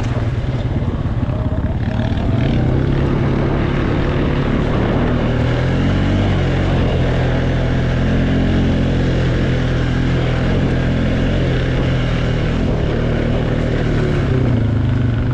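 ATV engine running under way, with its pitch rising and falling a little with the throttle over a steady rush of noise.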